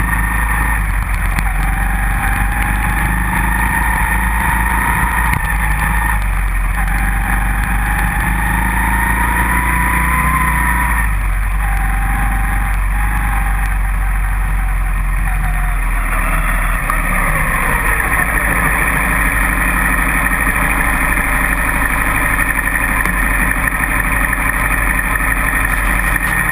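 Dirt bike engine running continuously, its pitch slowly rising and falling with the throttle and dropping away about two-thirds of the way through as it slows, over a steady low rumble.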